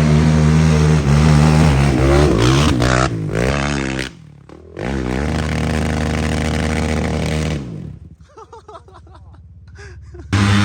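Off-road engine revving hard and running under load, its pitch sweeping up and down, briefly dropping off about four seconds in, then holding steady before fading away near the end and cutting back in loud at the very end.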